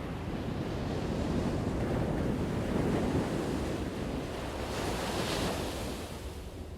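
Ocean waves breaking: a rush of surf that builds over the first few seconds, turns into a bright hissing wash near the end, then eases off.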